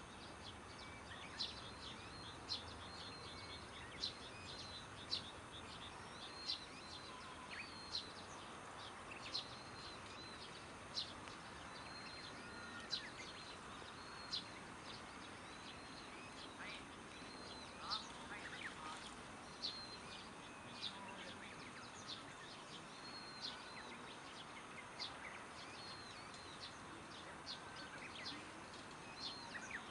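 A bird repeating a short, high chirp about once a second, over a faint steady background of outdoor noise.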